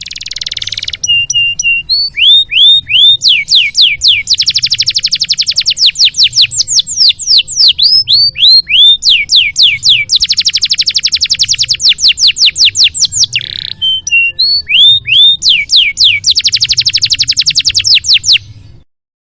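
Canary singing loud, fast song: runs of sharp downward-sweeping whistles and three long, very rapid trills. It cuts off just before the end, over a faint low hum.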